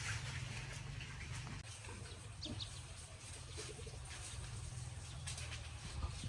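Faint bird calls, a couple of short chirps and a few low cooing notes, over a steady low rumble.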